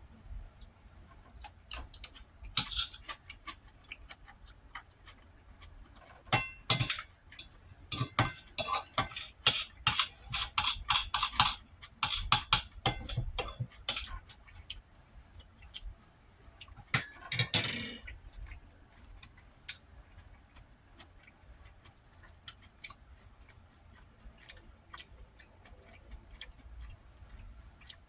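Metal utensil clinking and scraping against a plate while eating, with rapid runs of clicks a quarter of the way in. Further on there is one longer noisy sound lasting about a second.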